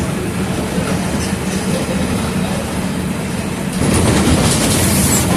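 Mercedes-Benz OF 1722M bus's diesel engine running with road noise. About four seconds in the sound turns louder, and a high hiss builds near the end.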